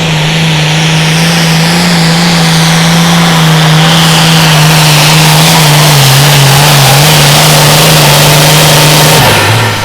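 Pulling tractor's engine at full throttle under heavy load through a pull, with a steady strong drone and a whine rising above it. The pitch sags slightly past halfway as the load builds, then drops off sharply near the end when the throttle is let off.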